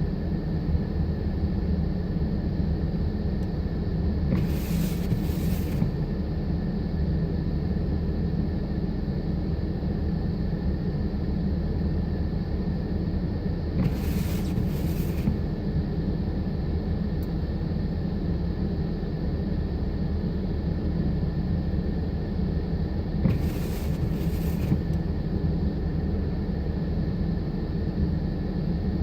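Blizzard wind buffeting the microphone in a steady low rumble. A brief double hiss comes back about every nine to ten seconds.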